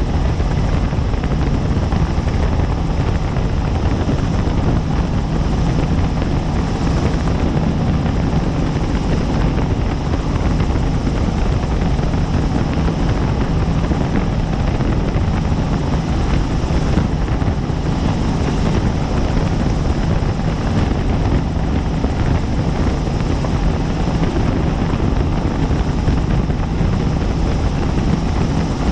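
Helicopter in flight heard from the cabin, its rotor and turbine giving a steady, loud drone with a fast flutter.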